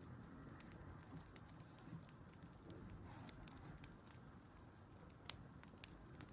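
Wood fire crackling faintly, with scattered irregular pops and snaps over a low hiss and one sharper pop about five seconds in.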